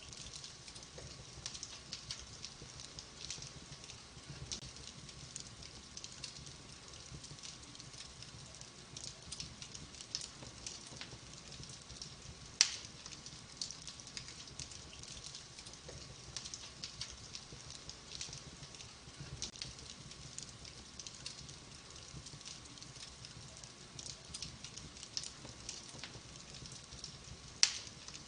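Wood fire in a fireplace crackling with a dense run of small irregular ticks over a low rumble. Two sharp, much louder pops come about twelve seconds in and near the end.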